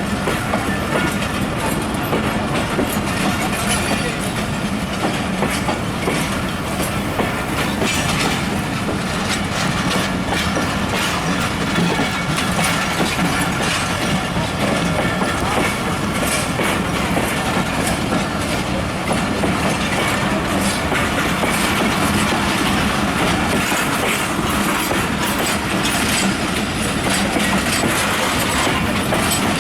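Karakoram Express passenger coaches rolling past close by: a steady, loud rumble of a long train, with wheels clacking over the rail joints.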